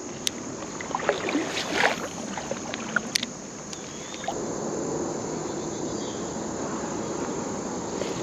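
Creek water sloshing and splashing around a person moving through shallow water, with scattered clicks in the first few seconds, then a steadier wash of water. A constant high insect trill carries on underneath.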